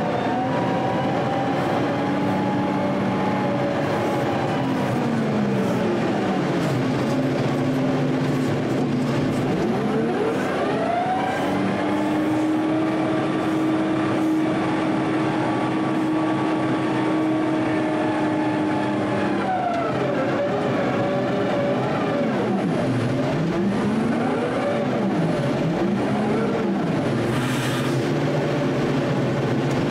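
Heavy snow-clearing machine's engine working, its revs repeatedly dropping and climbing back up and holding for a few seconds between. Near the end there is a short burst of hiss.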